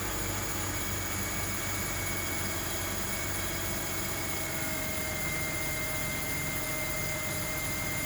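Car engine idling steadily after a cold start, heard from the open engine bay, with a thin whine that sags slightly in pitch over the first few seconds and then holds.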